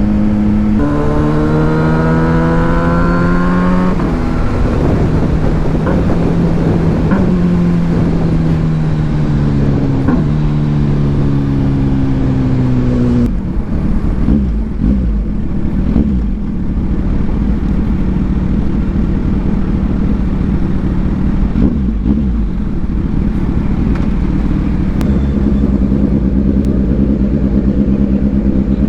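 Kawasaki Ninja 1000SX inline-four with an aftermarket AR exhaust pulling hard with rising revs, then stepping through gear changes in the first half. From about halfway it settles to a lower, steady engine note.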